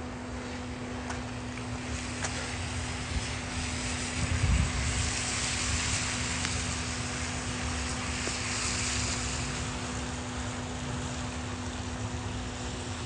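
Steady outdoor rumble and hiss with a constant low hum, growing louder through the middle and easing toward the end, with one low thump about four and a half seconds in.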